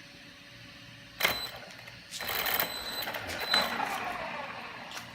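VKAR Bison RC car's drivetrain crunching and rattling in short bursts under very light throttle: a slipping sound the owner suspects comes from the slipper clutch or an off gear mesh. A sharp click about a second in, two bursts of rattle, the second dying away in a falling whine, and a last click near the end.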